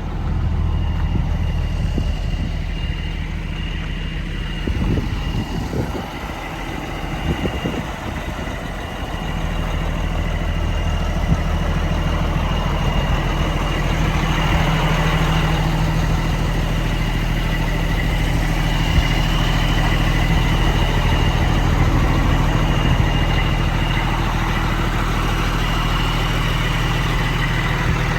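Cummins diesel engine of a 1995 White/GMC truck running steadily at idle, picking up a little about nine seconds in, with a thin steady high whine above it.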